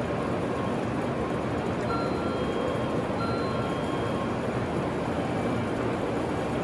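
700 Series Shinkansen train running slowly in toward the platform, a steady train noise, with two brief faint high tones about two seconds in and again about a second later.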